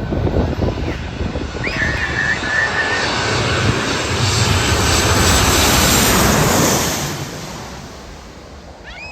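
Airliner passing low overhead, its engine noise building to a loud peak about six seconds in, then fading away.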